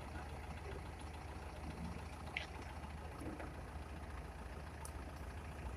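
Dump truck engine idling with a steady low hum.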